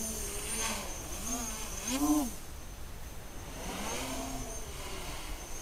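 Armattan CNC 355 quadcopter's electric motors and propellers buzzing, the pitch swinging up and down in several short arcs as the throttle is worked, loudest about two seconds in.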